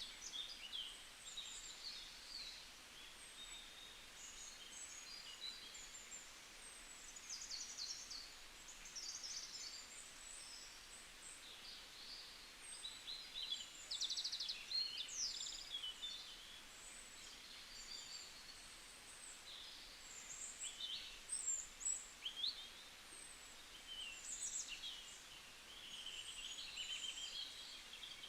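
Wild birds singing and chirping, many short high calls and trills overlapping one another over a faint outdoor background.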